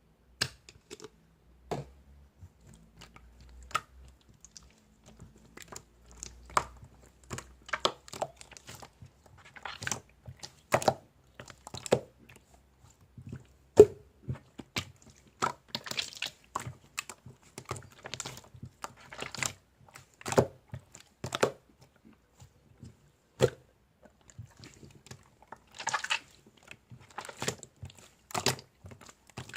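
Irregular close-up crunching and crackling: sharp crisp strokes at uneven intervals, a few of them longer and rougher.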